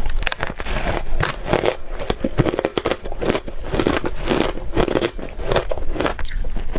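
Close-up crunching of crushed ice bars being bitten and chewed: a dense, irregular run of crackling crunches.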